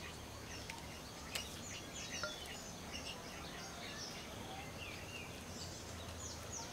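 Birds chirping repeatedly outdoors, many short, quick falling chirps, over a low steady background rumble. A single sharp click comes about a second and a half in.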